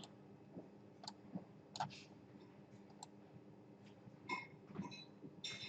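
Faint, irregular clicks of a computer mouse and keyboard, about nine in five seconds, over a low steady hum.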